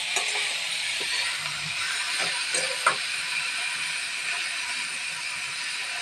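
Diced potatoes and fenugreek leaves sizzling in oil in a metal kadhai while a spatula stirs them, scraping and knocking against the pan. A steady hiss runs throughout, with a few sharp scrapes standing out about two and three seconds in.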